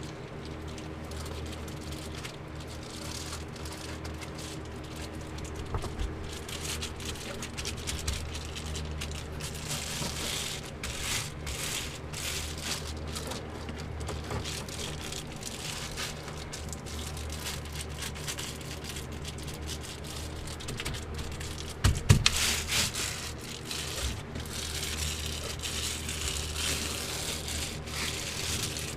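Reflectix foil-bubble insulation crinkling and rattling as it is unrolled and pressed onto the glued wall, over a steady low hum. A sharp knock comes about 22 seconds in.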